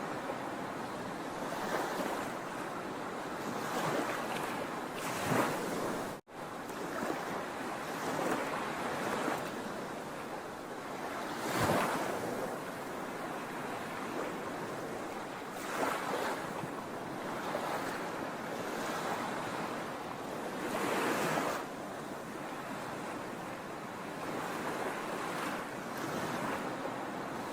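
Sea waves washing onto a shore: a steady rush of surf with a louder wave surging in every few seconds. The sound cuts out for an instant about six seconds in.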